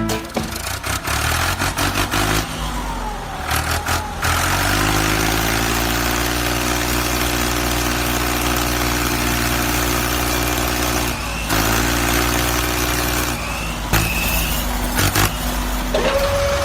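A vehicle engine running at a steady pitch, breaking off briefly about eleven seconds in. A steady higher tone starts just before the end.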